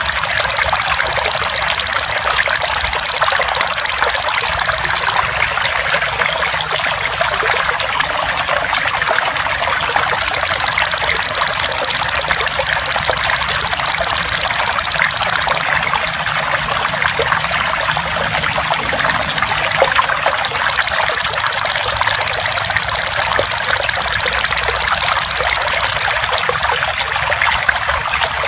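Steady trickling water, overlaid by the loud, rapidly pulsed buzzing song of a belalang emas (golden grasshopper). The insect sings three long trills of about five seconds each, roughly ten seconds apart, at the start, in the middle and near the end.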